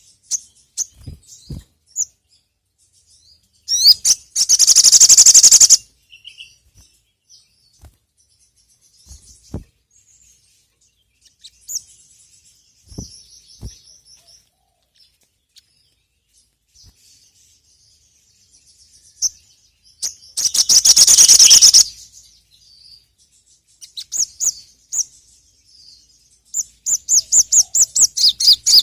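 Little spiderhunter (sogok ontong) singing: scattered high, sharp chirps broken by two loud, fast trills, and a quick run of repeated notes near the end.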